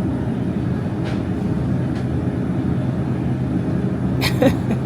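Steady low hum of a grocery store's refrigerated cases and ventilation, with a faint click about a second in and a brief rustle near the end.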